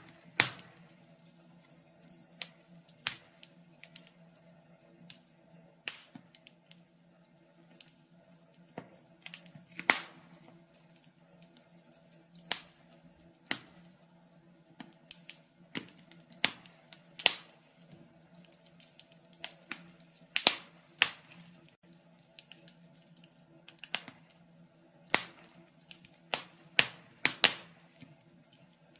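Log fire crackling: irregular sharp pops and snaps, a few loud ones among many small ticks, over a faint low steady hum.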